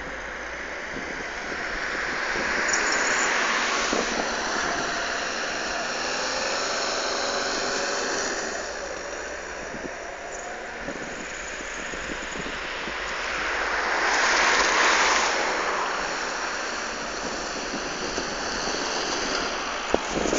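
Ford Mondeo 1.8 turbodiesel engine revving as the car drifts on snow, over a steady rushing noise. The sound swells about three seconds in and again around fourteen seconds in.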